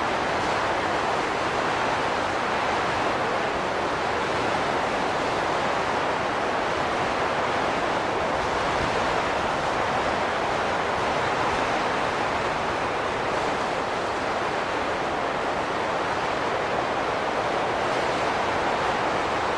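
Wind blowing steadily, an even rush of noise with no gusts, whistling tones or breaks.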